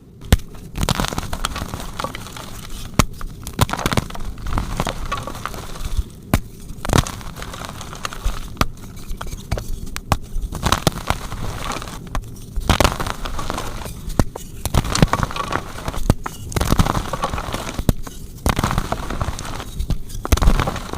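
Soft blocks of gym chalk being crushed and crumbled, crunching and crackling in repeated bursts of a second or two with short pauses between.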